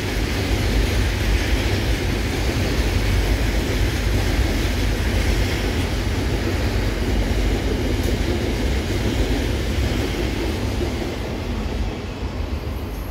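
Container flat wagons of a freight train rolling past close by: a steady rumble of wheels on rail that eases off slightly near the end as the last wagons pull away.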